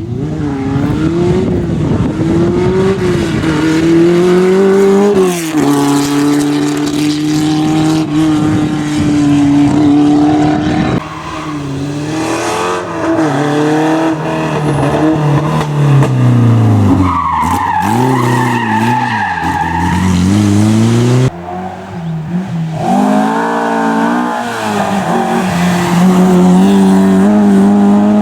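Rally car engines at full racing pace, revving hard and dropping back repeatedly through gear changes and braking. The sound changes abruptly three times as one car gives way to another.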